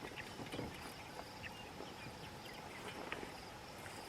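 Faint crickets chirping steadily, with a few small scattered ticks and chirps.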